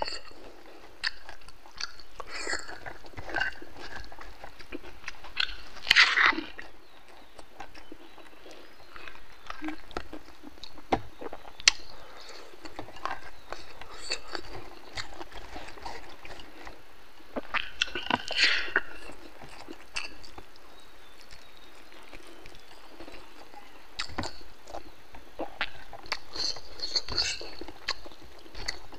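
A person eating rice and pork curry with the fingers: close wet chewing and lip-smacking with many small scattered clicks. There are two louder bursts of mouth noise, about six seconds in and again around eighteen seconds.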